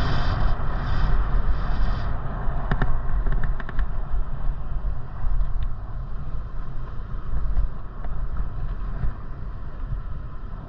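Wind rumbling on the microphone during a bicycle ride, over a steady noise of tyres and road. A hiss dies away about two seconds in, and a quick run of clicks follows about three seconds in.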